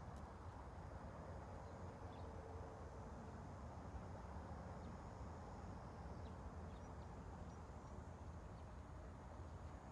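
Steady outdoor ambience: a low, even rumble with faint short bird chirps now and then.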